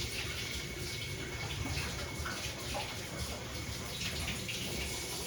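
Front-loading washing machine filling with water, a steady rush of running water, on a test run with a newly fitted door seal.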